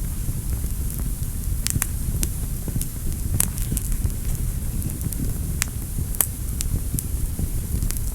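Wood fire burning in a fireplace: a steady low rumble of the flames with sharp crackles and pops scattered irregularly, a dozen or so in a few seconds.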